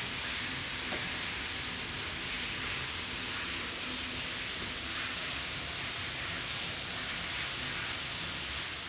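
Steady, even hiss with a faint click about a second in, fading out at the end.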